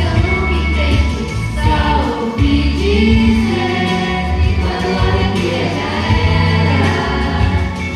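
A group of voices singing a pop song together over an instrumental accompaniment with a strong, steady bass.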